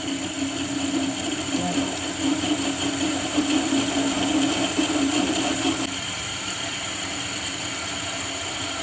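A machine running steadily with a continuous motor hum, its strongest low hum easing off about six seconds in.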